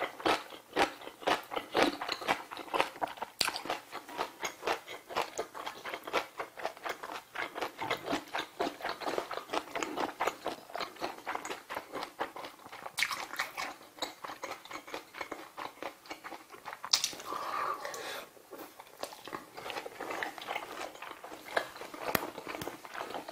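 A person chewing food close to the microphone, with wet mouth clicks and smacks coming several times a second.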